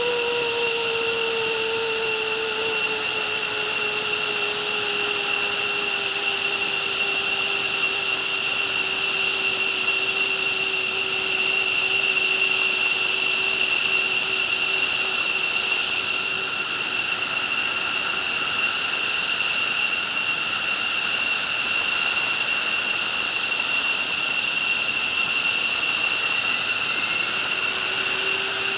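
F-15 fighter's turbofan jet engines running on the ground: a steady high whine made of several tones over a hiss. A lower tone slowly falls and fades out a little past halfway, and near the end a new tone begins to rise.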